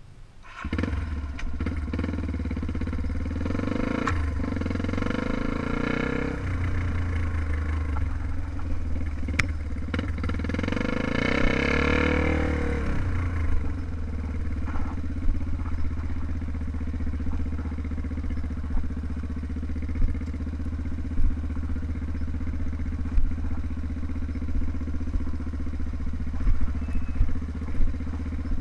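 Trail motorcycle engine that comes in suddenly about a second in and is revved up and back down twice. It then settles into a steady idle with a few sharp pops.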